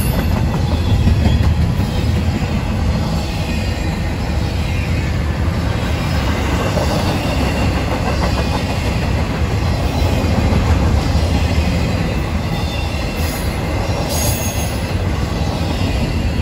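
Freight train's cars rolling past with steady wheel-on-rail rumble and clatter, and a brief high-pitched wheel squeal about fourteen seconds in.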